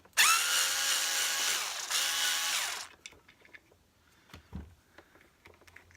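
Power screwdriver running in two bursts, its motor whining up to speed and then winding down as it backs screws out of the vacuum cleaner's handle grip.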